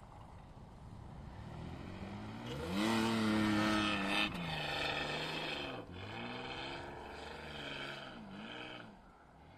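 Isuzu VehiCROSS V6 revving hard as the SUV powers sideways through deep snow. It is loudest about three to four seconds in, then drops, and rises and falls again several times as the car slides away, fading near the end. The exhaust has an odd note, which the owner puts down to a cracked exhaust front pipe (the Y-pipe).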